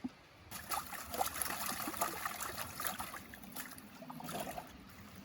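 Gold pan being swirled in river water: water sloshing with gravel and sand grating and clicking against the pan. It starts about half a second in and fades toward the end.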